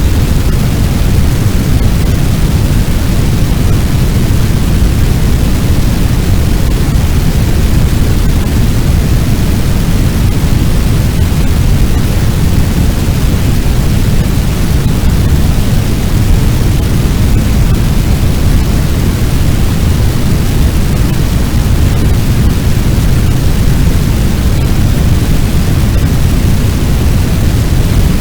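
Fire sound effect: a loud, steady, deep rushing noise with no crackles or separate bursts, made to sound like a large blaze with its wind.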